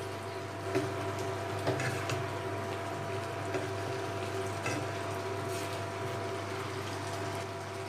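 Chicken, onion and capsicum in a yogurt-and-spice gravy frying and bubbling in a non-stick pan while being stirred with a spatula, with a few faint scrapes of the spatula on the pan. A steady faint hum runs underneath.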